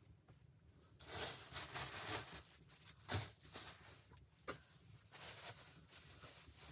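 Rustling and scraping handling noises that start about a second in, with two sharp knocks in the middle.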